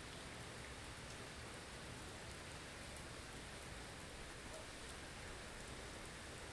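Blizzard ambience: a steady windy hiss with no gusts or changes, and a few faint ticks in it.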